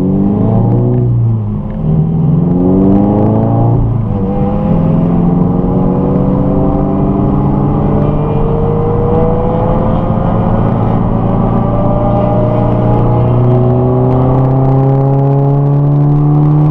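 Subaru BRZ's flat-four engine heard inside the cabin, accelerating hard with quick upshifts in the first four seconds, then pulling through one long, slowly rising climb in engine speed.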